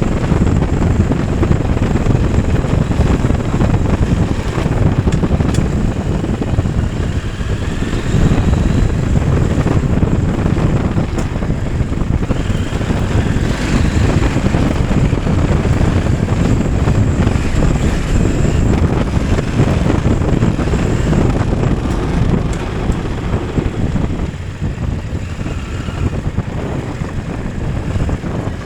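Motorcycle riding, the engine running under way, with wind rumbling over the microphone.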